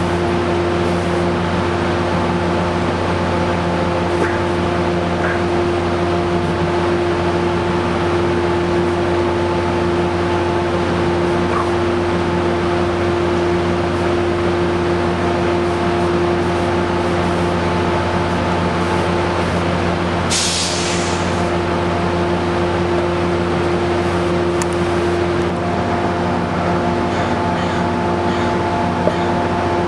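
Diesel locomotive of a stopped commuter train, an F40PHM-2C, running at a steady idle with a constant droning hum. Two short hisses of air come about two-thirds of the way through and again right at the end.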